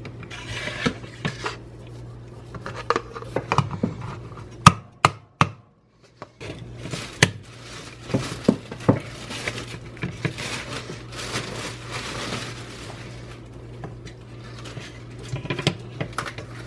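Kitchen handling sounds: sharp clinks and taps of dishes and utensils with stretches of scraping, over a steady low hum. There is a brief break about six seconds in.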